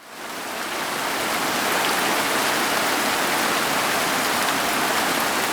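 Steady rain falling, with faint scattered drop ticks, fading in over about the first second and then holding even.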